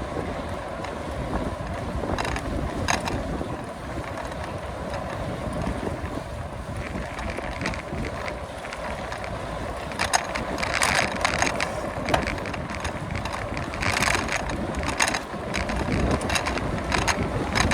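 Wind rushing over the microphone of a moving bicycle, with bursts of mechanical clicking and rattling from the bike, loudest about ten seconds in and again near the end.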